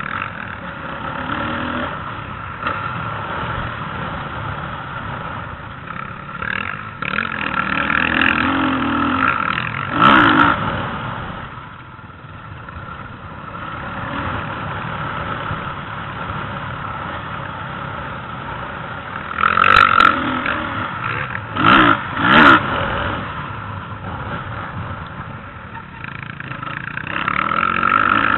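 Motocross bikes running on the track, their engines revving up and down, with bikes passing close and loud several times.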